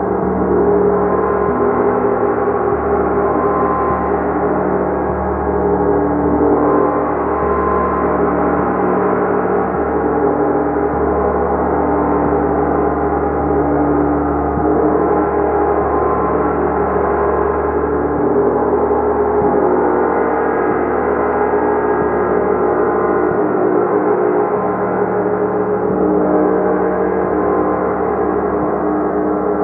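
Gong being played continuously: a steady, dense wash of many overlapping ringing tones, with no single strike standing out.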